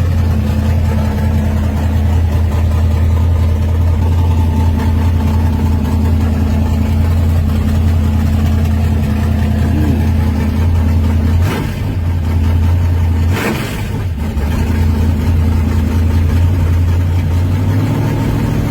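Pontiac gasser's engine idling with a steady, deep exhaust note. Twice in the second half, a brief noise cuts across it.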